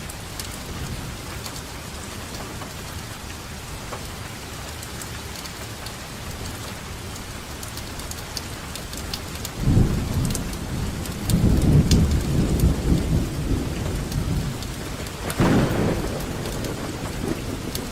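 Steady rainfall with the fine patter of drops. About halfway through, thunder breaks in with a low rumble that rolls on for several seconds, followed by a shorter, sharper peal near the end.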